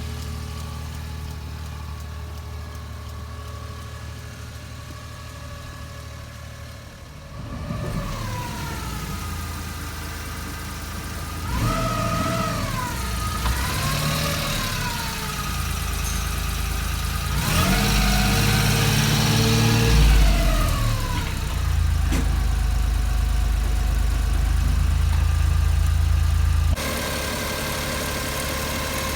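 1991 Suzuki Every van's small engine running steady, then revving up and down several times, rising and falling in pitch, before settling into a steady louder run. Near the end the sound drops abruptly to a quieter steady hum.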